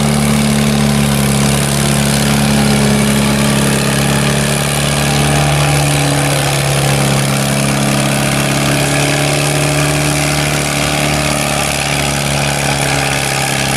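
Antique farm tractor engine running steadily.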